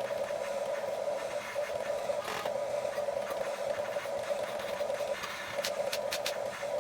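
Huina 1550 RC excavator's small electric motors running with a steady whine, easing briefly about five seconds in, with a few sharp clicks near the end.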